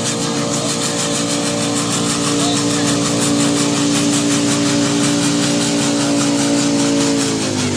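Tractor engine running hard at a steady speed, then winding down in pitch just before the end as the revs drop.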